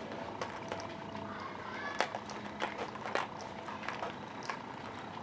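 Busy indoor hall ambience: distant voices of visitors and scattered sharp clicks and knocks over a steady mechanical hum.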